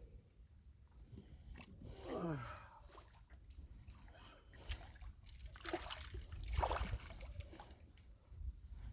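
Water sloshing against a boat hull, with scattered knocks and handling noises and a short falling sound about two seconds in.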